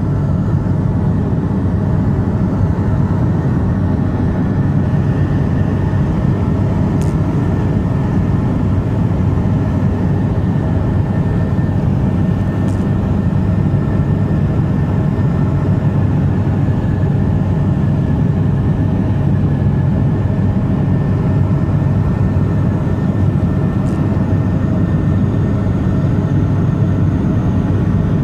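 Let L-410 twin-turboprop engines and propellers running in a loud, steady drone, with a few faint ticks.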